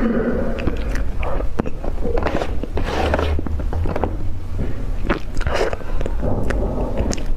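Close-miked biting and chewing of crunchy food: a run of irregular crunches and crackles over a low steady hum.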